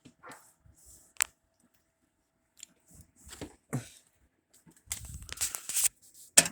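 Handling and cleaning noises inside a microwave: a sharp click about a second in, scattered rubbing sounds, then a busier stretch of rustling and scrubbing near the end.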